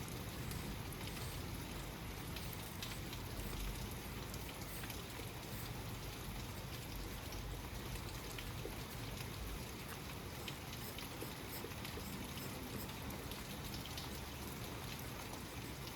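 Steady rain falling, with single raindrops ticking through the hiss.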